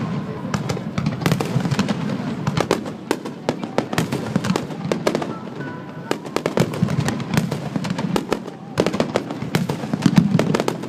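Fireworks finale: a dense barrage of shell bursts and crackling, sharp reports coming several a second over a continuous rumble.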